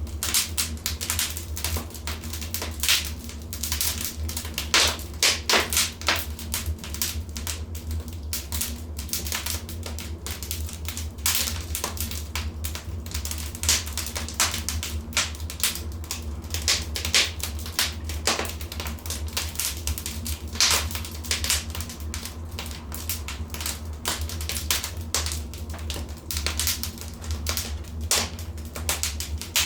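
Wood fire in a fireplace crackling, with dense, irregular sharp pops and snaps over a steady low rumble.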